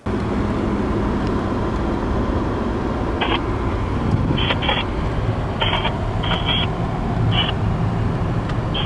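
Mercedes M110 straight-six car engine running steadily, with short high-pitched chirps coming and going from about three seconds in.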